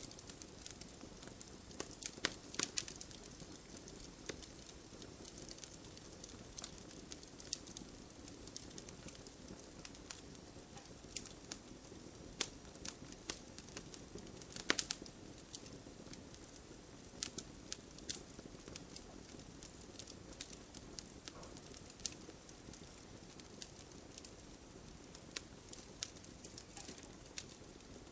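Wood bonfire crackling, with scattered sharp pops at irregular intervals, the loudest about two and a half seconds and fifteen seconds in, over a steady patter of gentle rain.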